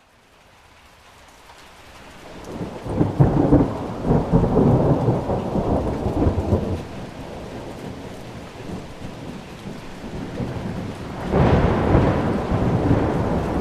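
Rain falling with thunder rolling: the rain fades in from silence, a long low roll of thunder starts about two and a half seconds in and lasts several seconds, and a second roll comes near the end.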